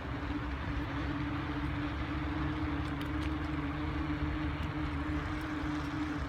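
Mountain bike riding on knobby tires, giving a steady, even hum, with wind rumbling on the phone's microphone.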